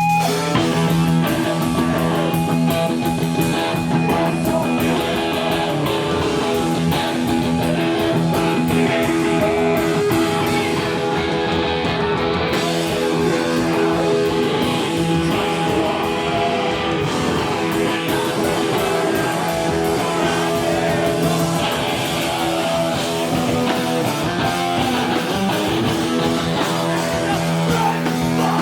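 Live rock band playing: loud electric guitars over drums, with singing.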